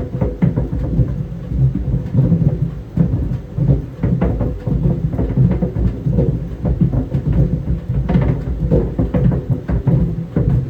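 Tennis balls tumbling in a running clothes dryer: a continuous, irregular run of dull low thuds as the balls bounce against the drum, over the drum's steady rumble.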